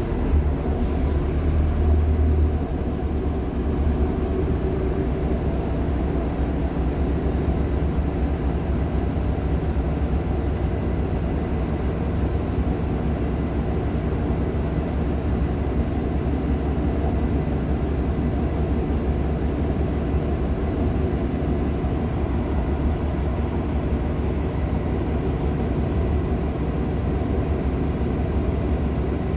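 Nova Bus LFSA articulated hybrid bus running, with the steady low rumble of its Cummins ISL9 diesel and driveline. The rumble is heavier for the first couple of seconds.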